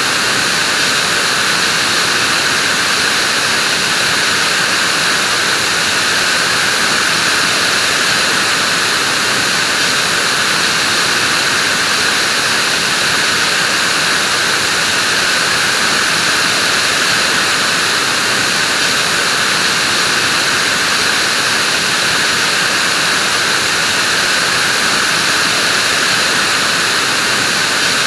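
Vacuum cleaner running continuously at a steady pitch, a constant airy whoosh with no changes.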